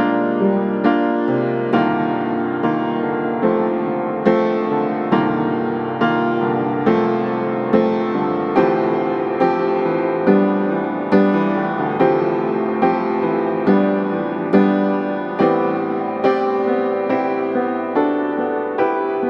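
Background piano music: a slow, even run of notes, roughly one or two a second.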